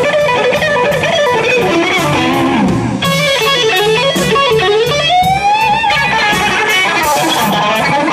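Live blues: an electric guitar plays lead lines with bent notes over a band with bass and drums.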